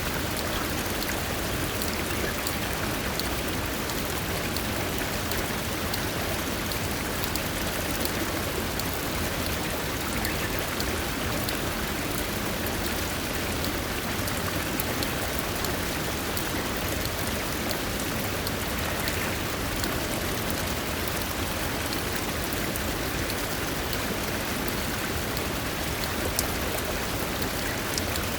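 Steady rush of water, even and unbroken, with many fine scattered ticks like drops landing.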